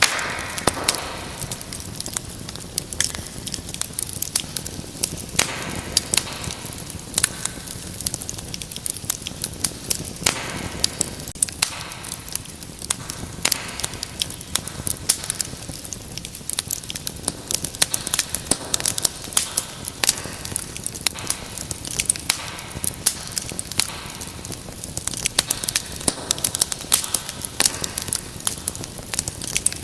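Wood fire burning in a fireplace: a soft steady hiss of flames with frequent sharp crackles and pops from the burning logs, several a second.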